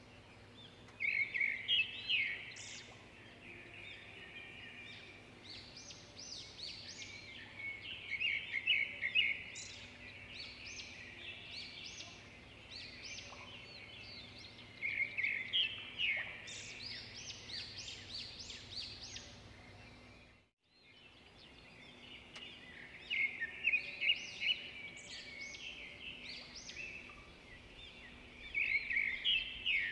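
Birds chirping and chattering in bursts that come back every several seconds, with a brief dropout about two-thirds of the way through.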